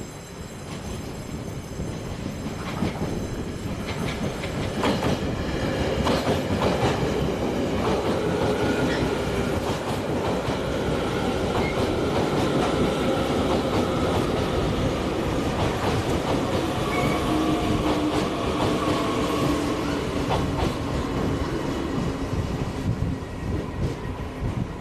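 Taiwan Railway train running on the track, growing louder over the first few seconds with its wheels clattering over rail joints. It then runs on steadily with several tones that slowly fall in pitch.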